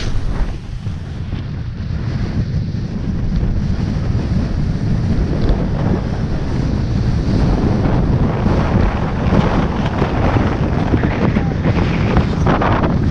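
Wind buffeting the microphone: a loud, steady rushing rumble that swells briefly near the end.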